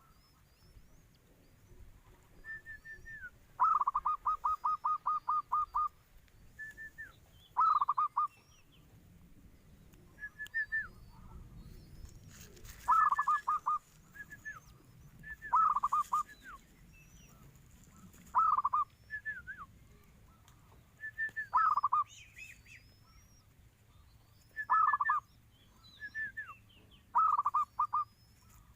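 Zebra dove (perkutut) cooing: a phrase every two to three seconds, each a short high note sliding down, then a fast run of rapid, evenly pulsed coo notes. Faint high chirping of small birds sounds between the phrases.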